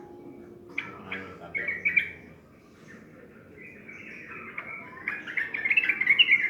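Yellow-vented bulbul chirping and chattering in quick, bubbly notes: a short burst about a second in, a brief lull, then a denser, louder run of song in the second half.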